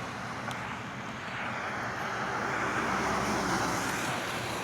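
Steady rushing noise of riding a RadRover 5 fat-tyre e-bike on a trail: wind on the camera and tyres on the path. It grows somewhat louder for a couple of seconds in the middle.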